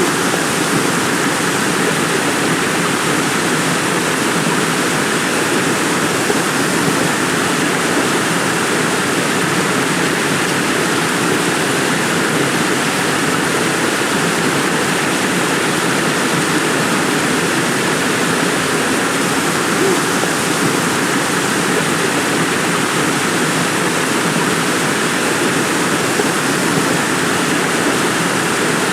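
Heavy rain falling steadily in forest, a constant dense hiss with no let-up.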